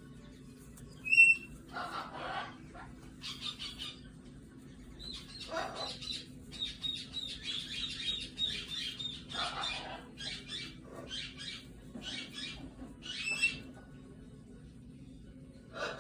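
Umbrella cockatoo calling while being petted: a brief sharp high squeak about a second in, then a series of short calls with a longer, rapidly fluttering call in the middle.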